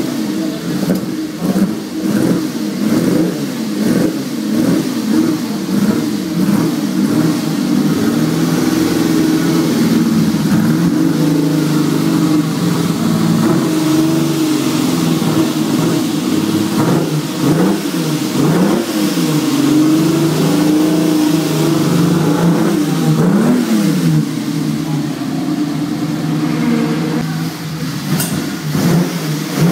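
Ferrari 212 Export's 2.6-litre V12 running and being blipped repeatedly, its pitch rising and falling with each blip, with steadier spells at a fast idle between the blips.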